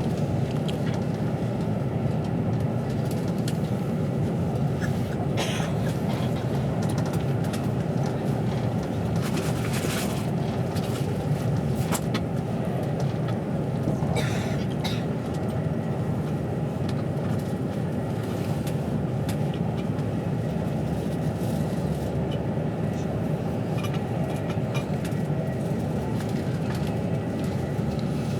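Steady rumble and rush of a moving passenger train heard from inside the carriage, with a faint steady hum and a few brief hisses or clatters now and then.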